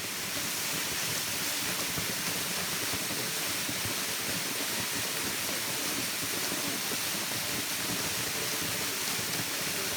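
Waterfall rushing: a steady, even noise of falling water that doesn't let up.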